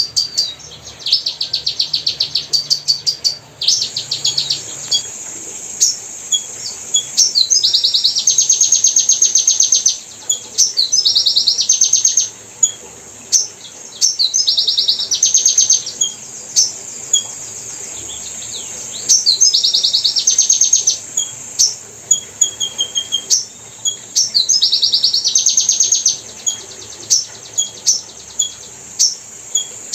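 Small bird giving high, very rapid chirping trills in bursts of one to two seconds, repeated over and over, with short single chirps between the bursts.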